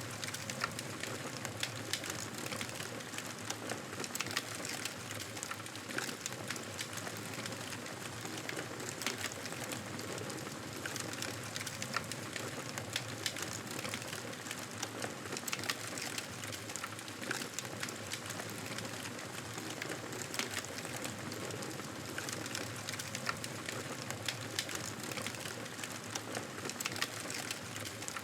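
Wood fire crackling in a fireplace: a steady hiss with frequent small sharp pops and snaps scattered throughout.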